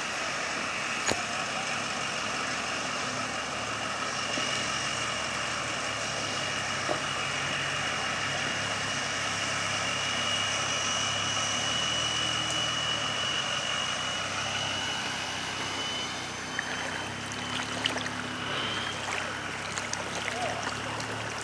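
An engine running steadily, with a steady whine over its low drone; it eases off a little about sixteen seconds in.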